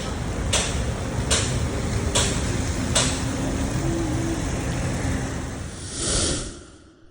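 Steady rumble of a vehicle running in heavy rain, with five sharp swishes in the first three seconds, a brief swell near the end, then a fade to silence.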